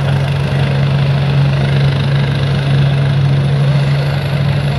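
Helicopter running steadily on the ground: a low, even engine hum under a rushing noise.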